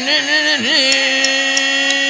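A person's voice holding one droning tone, wobbling up and down in pitch at first and then held steady.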